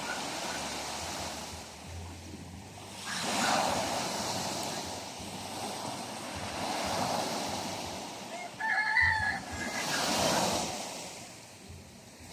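Sea waves washing in, the surf swelling twice, about three seconds in and again about ten seconds in. A brief pitched animal call sounds about nine seconds in.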